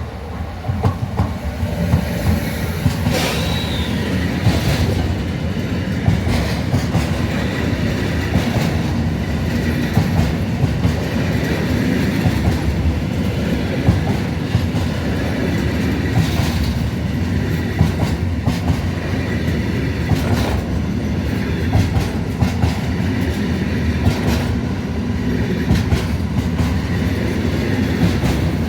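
Train passing at close range: a steady, loud rumble with the clickety-clack of wheels running over rail joints.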